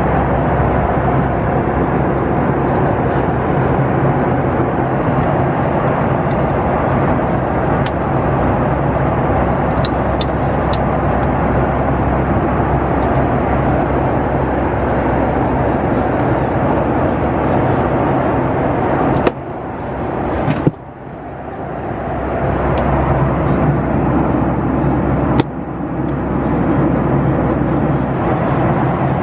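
Steady cabin noise of a Boeing 737 MAX 9 airliner: the constant sound of its jet engines and airflow with a low hum underneath, abruptly cut twice, about two-thirds of the way through and again near the end.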